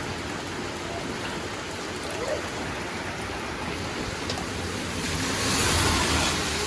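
Steady rain falling, a continuous hiss that swells louder for a second or two about five seconds in.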